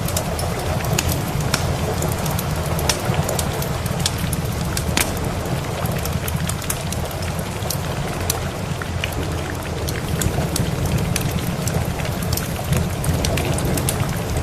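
Steady rain mixed with a crackling wood fire: a constant hiss over a steady low rumble, with frequent short sharp pops and clicks.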